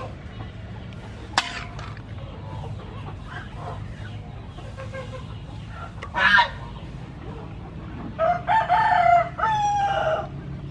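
A bird calling near the end: one loud call of several short notes running into a long held note, about two seconds long. Before it, a brief sharp click about a second in and a louder short burst about six seconds in, over a steady low hum.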